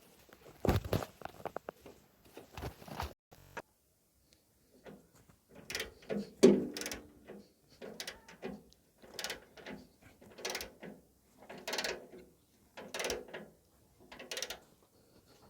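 Metal mechanism being worked by hand: a few irregular knocks, then a steady run of repeated clicking, grinding strokes, about one every second and a bit.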